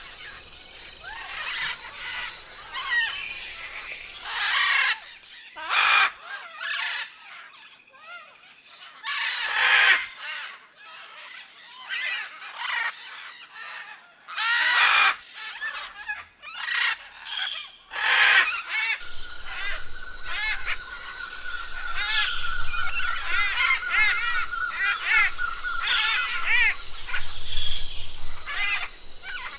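Parrots squawking and chattering, harsh calls in quick succession. From about two-thirds of the way in, a steady high tone runs under quicker, lighter chirps.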